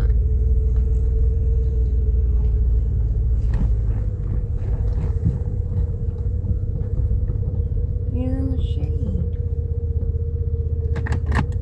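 Road noise inside a moving car's cabin: a steady low rumble of engine and tyres with a constant hum running under it.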